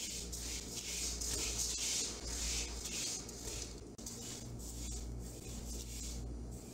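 Silicone spatula stirring and scraping split mung beans being dry-roasted in a pan: a rhythmic rattling shuffle of the dry beans, about two strokes a second, louder in the first four seconds and fainter after.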